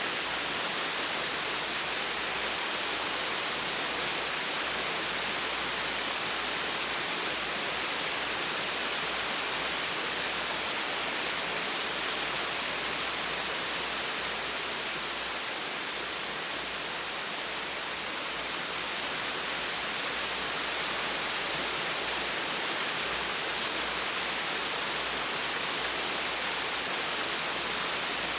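Gentle waterfall: water falling with a steady, even rush, mostly hiss with little deep rumble.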